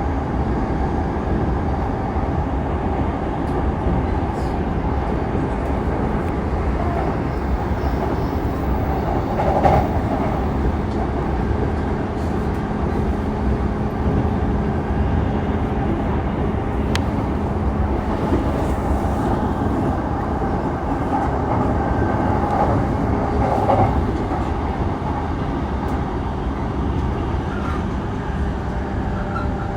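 JR East E233 series 3000-number electric multiple unit running between stations, heard from inside the car: a steady rumble of wheels on rail with a faint traction motor hum, swelling slightly louder twice.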